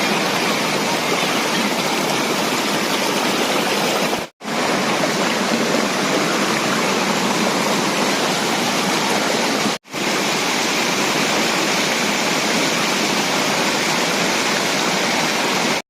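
Waterfall water rushing steadily, a loud, even roar of falling and running water. It cuts out briefly about four seconds in and again near ten seconds.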